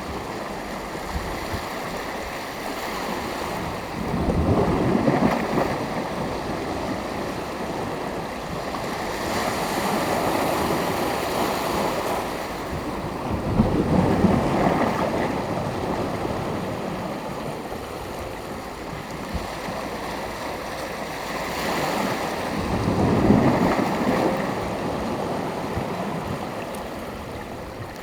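Sea waves breaking and washing on the shore, with the surf swelling louder every few seconds, about four times.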